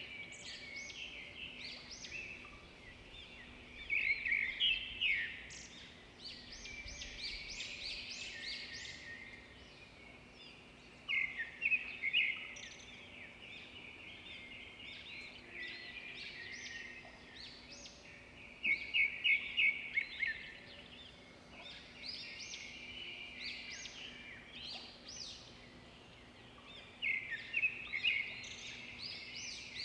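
Edible-nest swiftlets twittering: a constant high chirping, broken by louder bursts of rapid, clicking twitters about every seven to eight seconds. A faint steady hum lies underneath.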